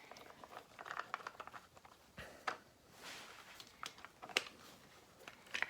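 Faint scattered clicks and light scraping as the screw of a motorcycle's plastic fuse box cover is undone and the cover is handled off.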